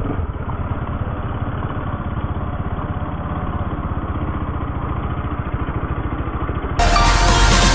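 Bajaj Pulsar RS200's single-cylinder engine running steadily at low revs. Electronic music cuts in suddenly near the end.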